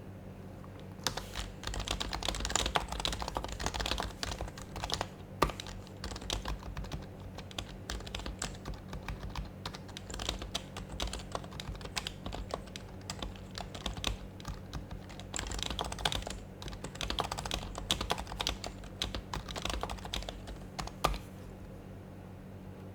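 Typing on an HHKB Professional Hybrid Type-S keyboard, its silenced Topre keys giving soft, muted keystrokes in quick runs with short pauses. The typing starts about a second in and stops near the end with one sharper keystroke.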